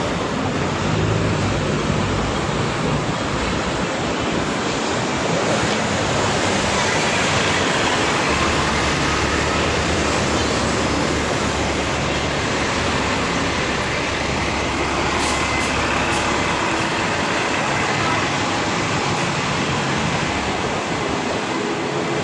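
Steady city street noise: road traffic running past with a constant rain-like hiss, and a heavier vehicle's low rumble from about eight to fifteen seconds in.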